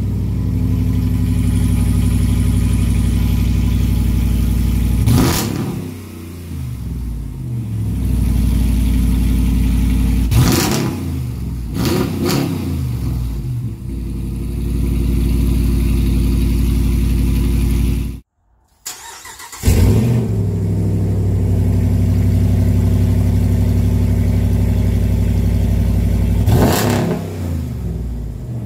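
5.7-litre Hemi V8 pickup exhaust just after a cold start, idling steadily with short revs about 5, 10 and 12 seconds in. It cuts off briefly past the middle, then the engine starts again with a surge, settles to a steady idle and is revved once more near the end.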